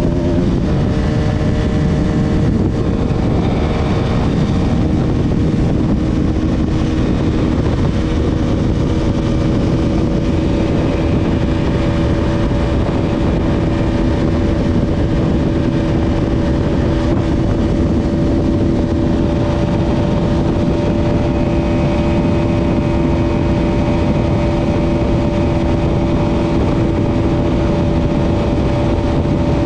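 Bajaj Pulsar RS200's single-cylinder engine held at high revs at speed, under a loud rush of wind on the microphone. The engine note shifts just after the start, then holds one steady pitch.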